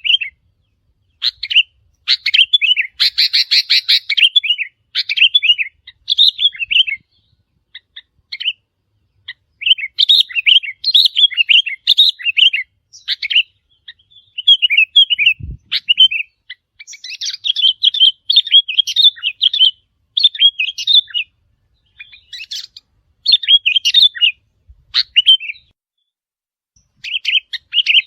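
Sooty-headed bulbul calling: bursts of quick chirping phrases that repeat with short gaps between them. One brief low thump about halfway through.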